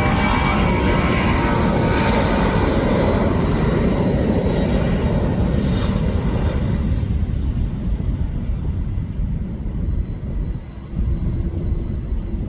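Jet aircraft engines running at high power as a plane takes off or passes. The sound is loud and full at first, then turns duller and fades over the second half as the aircraft moves away.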